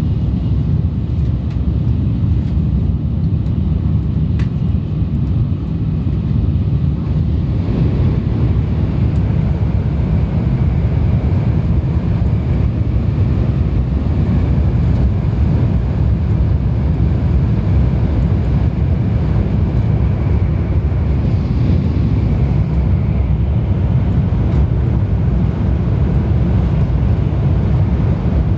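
Sanyo Shinkansen train running at speed, heard from on board: a steady, loud low rumble that turns a little brighter and hissier about a quarter of the way in.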